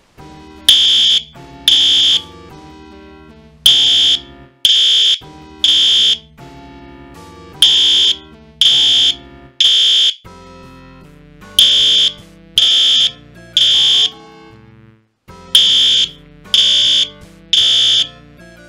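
System Sensor L-Series P2WL horn strobe sounding its electromechanical horn tone in the Code 3 temporal pattern. It gives loud half-second blasts in groups of three, about a second apart, with each group followed by a pause and the cycle repeating about every four seconds.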